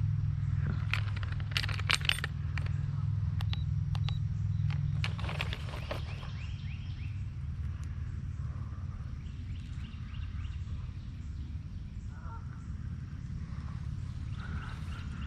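Small sharp metallic clicks and clinks, a cluster in the first six seconds and a few faint ones later, from fishing tackle being handled. A steady low rumble sits under the first five seconds and then fades.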